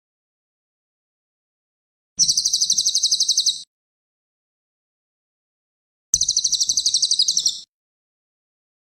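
Cililin song: a rapid high trill of evenly repeated notes, about ten a second, lasting about a second and a half, heard about two seconds in and again, identical, about six seconds in, with dead silence between.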